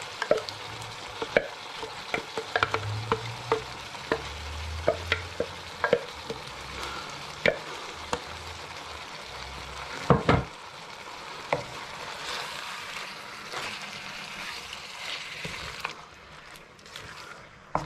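Chicken and onions sizzling in a wok while a wooden spoon scrapes curry paste out of a plastic food-processor bowl, with many sharp taps and knocks and a louder knock about ten seconds in. Near the end the spoon stirs the paste through the pan.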